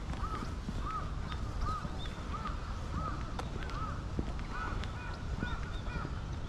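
A bird calling a quick, regular series of about ten short, arching notes, roughly one every half second or so, over a steady low background rumble.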